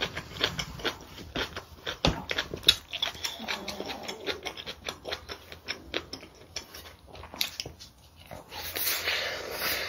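Close-miked eating sounds: rapid, irregular wet chewing and mouth clicks of spicy braised green onion kimchi and rice. A longer, noisier stretch comes near the end as a fresh bite is taken.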